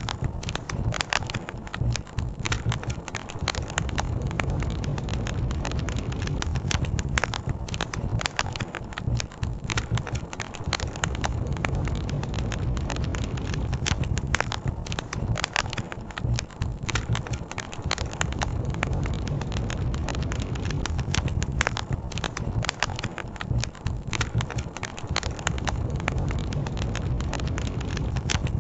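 Campfire crackling and popping without a break, many sharp cracks a second, over a steady low rumble.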